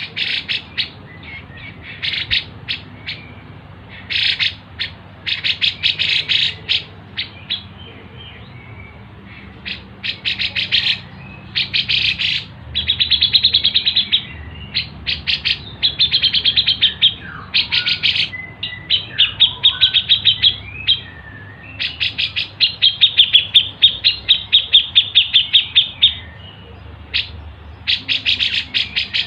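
Songbirds chirping in bursts of rapid, sharp repeated notes broken by short pauses, from a masteran bird-song training recording that combines grey-cheeked bulbul (cucak jenggot), squabbling Eurasian tree sparrows (gereja tarung) and siri-siri.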